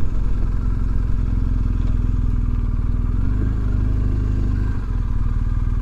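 Adventure motorcycle's engine running at a steady speed while being ridden, an even low drone with no change in pitch.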